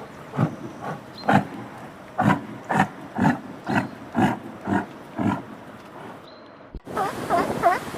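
An animal giving a rapid series of short, low grunting calls, about two a second, that stop a little after five seconds in. Near the end the sound cuts to a different run of quick, higher chirping calls.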